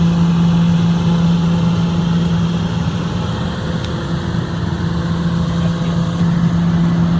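Excavator's diesel engine running at a steady pitch, a constant drone.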